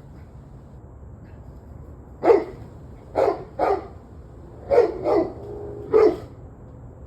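A dog barking, six single barks in irregular pairs over about four seconds, starting a couple of seconds in, over a steady low background hum. It is part of barking that has gone on and off for about an hour and a half.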